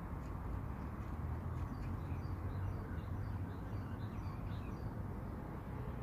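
Small birds chirping faintly in short high notes through the middle, over a steady low outdoor rumble.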